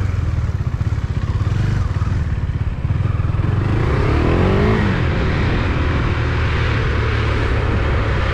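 KTM 390 single-cylinder motorcycle running as it pulls away, a rush of noise building from about three seconds in.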